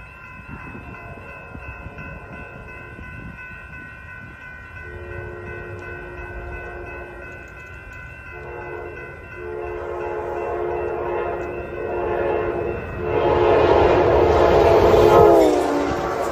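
Nathan K5LA five-chime air horn on an Amtrak Pacific Surfliner train sounding several blasts as the train approaches, each louder than the last, the final long blast dropping in pitch as the train passes close by. Train rumble underneath throughout.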